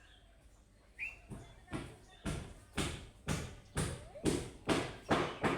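Budgerigar calling: a short chirp about a second in, then a run of harsh, noisy squawks, about two a second, growing louder.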